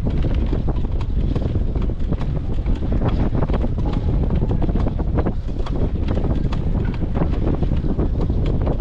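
Wind buffeting the microphone of a camera on a moving bicycle: a loud, steady rumble with crackling gusts.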